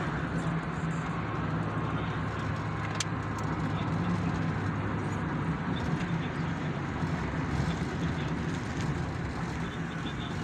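Car driving at a steady speed: even engine and tyre noise with a steady low hum.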